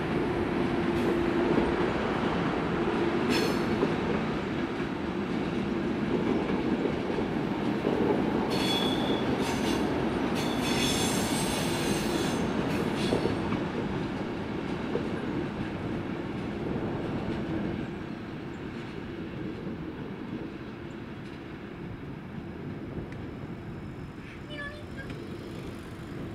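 ÖBB locomotive-hauled passenger train rolling past on the tracks: a steady rumble of wheels on rail, with a brief high-pitched wheel squeal about three seconds in and more squealing between about eight and thirteen seconds. The rumble drops off after about eighteen seconds as the train moves away.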